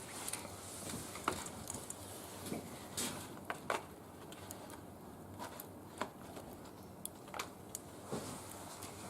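Irregular sharp clicks and light knocks over a faint hiss, a handful of them louder, with no steady rhythm.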